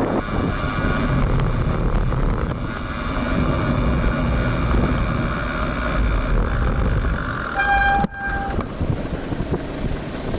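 Wind buffeting the built-in microphone of a bike-mounted action camera, with road noise, as the road bike is ridden through wind and rain. A little under 8 seconds in, a single horn toot sounds for about a second.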